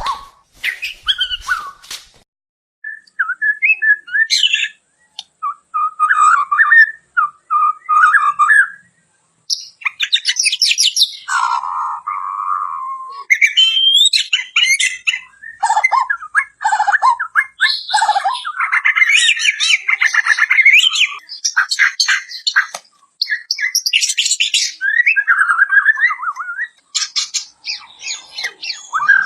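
White-crowned shama singing a long, varied song. Clear gliding whistles mix with fast trills and harsh rattling notes, delivered in bursts with short pauses between.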